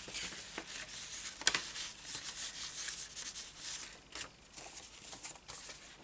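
Paper napkin scraps and an envelope rustling and rubbing as they are handled and sorted, with a sharp tap about one and a half seconds in.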